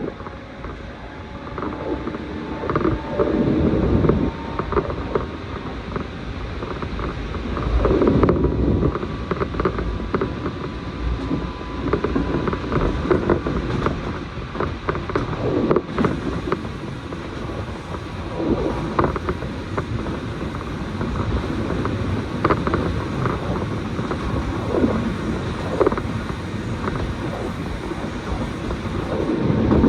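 Electric train running between stations, heard from inside the passenger car: a steady rumble of wheels on rail with irregular clicks, knocks and creaks from the car body.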